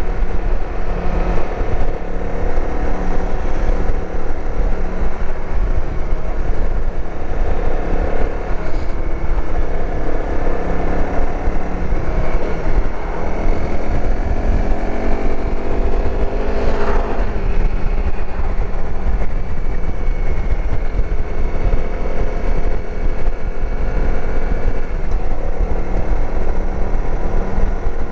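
Dirt bike engine running while riding along the road, under heavy wind rumble on the microphone; the engine pitch climbs for several seconds around the middle as the bike speeds up, then settles back.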